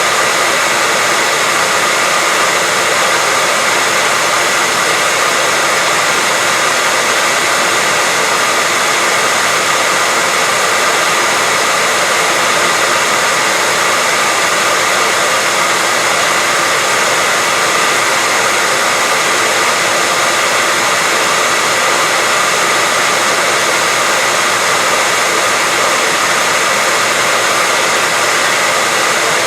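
Hair dryer running continuously at a steady speed: an even, unchanging rushing hiss of blown air and fan, with a faint steady whine.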